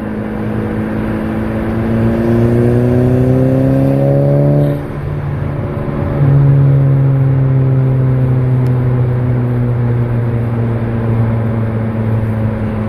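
Turbocharged Volkswagen four-cylinder accelerating through a 3-inch downpipe and VW sport exhaust with no muffler: the engine note rises for about five seconds, drops suddenly at a lift-off or gear change, then comes back on and slowly falls away as the car cruises.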